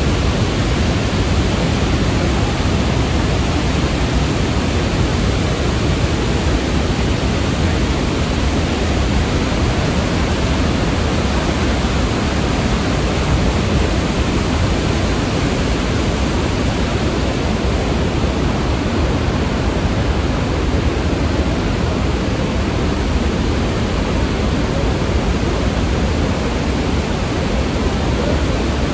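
Iguazu Falls: a loud, steady, unbroken rush of falling water.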